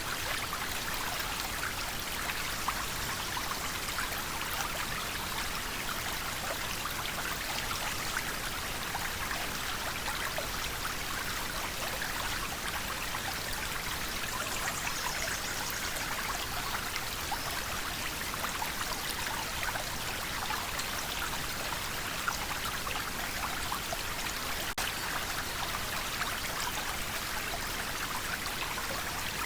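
River water flowing and splashing steadily, a continuous rushing babble with fine trickling and splashing detail and no pauses.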